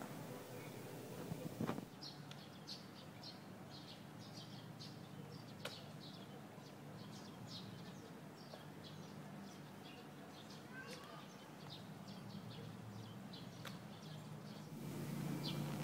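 Small birds chirping: many short, high chirps in quick succession over a steady low hum. A short knock just before two seconds in is the loudest sound.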